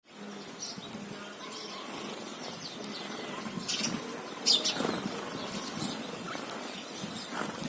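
House sparrows chirping: short, scattered cheeps, the loudest about four and a half seconds in, over a steady background hiss.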